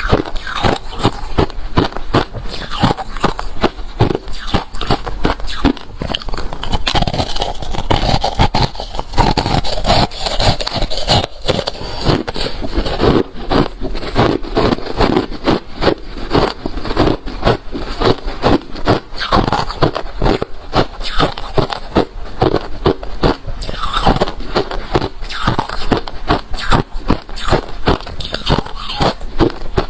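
Close-up chewing and crunching of hard refrozen crushed ice: a dense, loud run of sharp cracks several times a second, with scraping sounds between bites.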